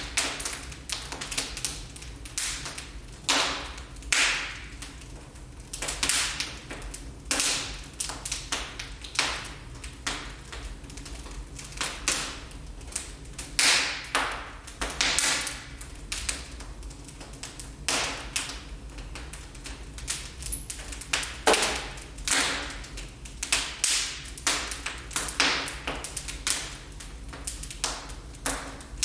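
Wood fire in a fireplace crackling: irregular sharp pops and snaps, a few a second and varying in strength, over a steady low rumble.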